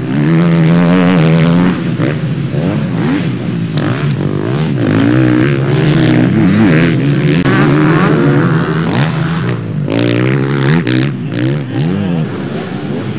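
Several motocross bikes racing, their engines revving up and dropping back over and over as the riders open and close the throttle and shift gears, several engine notes overlapping.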